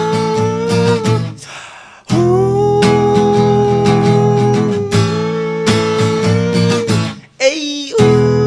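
Strummed acoustic guitar with a voice singing long, wordless held "uuuh" notes. The music drops out briefly about a second in and again near the end.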